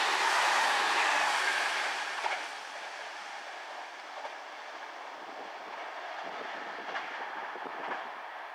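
Meitetsu electric train running past, the noise dropping after about two seconds as it moves away, with a few sharp clacks of wheels over rail joints.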